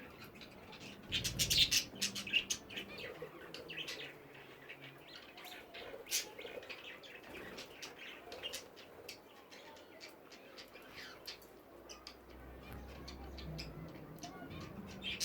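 A flock of budgerigars chirping and chattering in an aviary, many short high chirps overlapping, with a louder flurry about a second and a half in.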